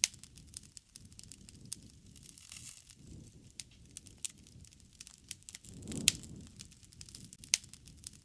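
Wood campfire crackling: irregular sharp pops and snaps over a low rumble of flames. The loudest pops come right at the start and about six seconds in, where the rumble also swells.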